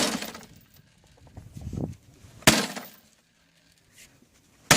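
Axe blows striking a lawnmower's engine and deck: three sharp impacts, roughly two and a half seconds apart, each with a brief crashing ring.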